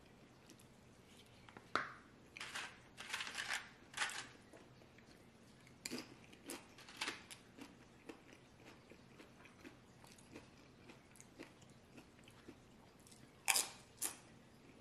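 A person biting and chewing crisp tortilla chips close to the microphone, with irregular crunching in clusters: a run about two to four seconds in, a few more around six to seven seconds, and two sharp, loud crunches near the end.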